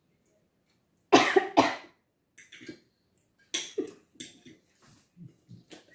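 A person coughing, set off by eating very spicy hot wings: two loud, sharp coughs about a second in, then a weaker cough and a few small throat-clearing coughs.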